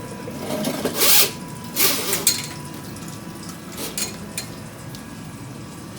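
Electric drain-cleaning machine at work on a clogged drain: short, loud rasping bursts about one and two seconds in and weaker ones around four seconds, over a steady hum.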